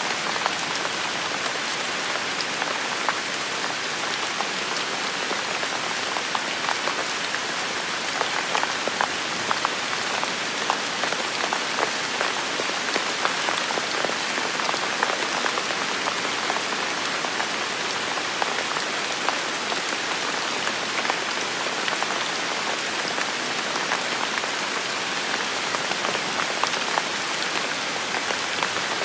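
Heavy rain falling steadily, a dense even hiss with many individual drops pattering and ticking through it.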